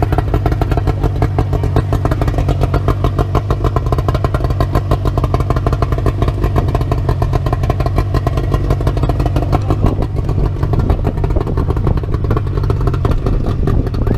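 A small engine running steadily at an even speed, with a rapid regular beat.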